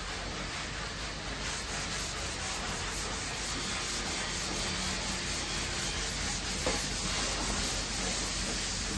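Sanding on a car body panel: steady rubbing strokes in an even rhythm, with one small knock late on.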